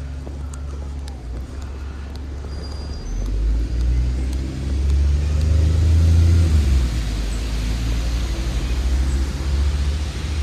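Motor vehicle engine running nearby, its low rumble swelling about a third of the way in and easing off near the end, over a steady hiss of rain.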